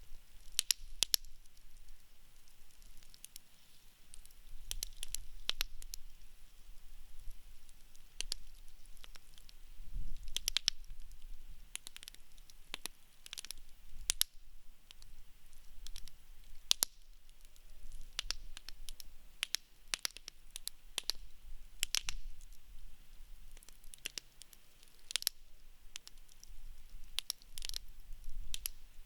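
Wood campfire crackling: irregular sharp pops and snaps of burning logs over a faint steady hiss.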